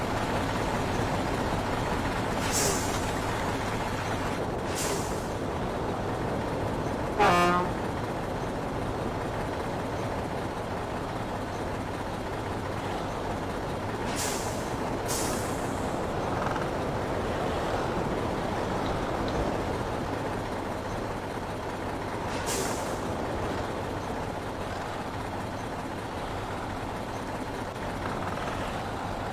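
Heavy truck running slowly, with several short air-brake hisses and a brief horn toot about seven seconds in, the loudest sound.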